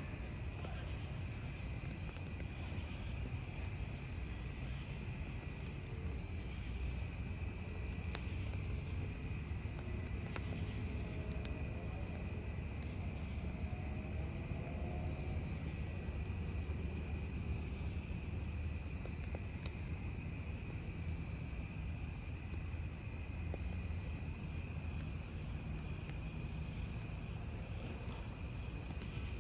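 Crickets chirping in a steady, continuous high trill over a wood fire burning, with a low rumble and occasional faint crackles.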